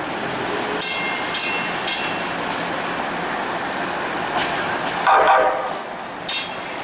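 Los Angeles Metro light rail train running with a steady rumble, while a high bell or chime rings three times in quick succession about a second in and once more near the end. A brief lower pitched sound comes about five seconds in.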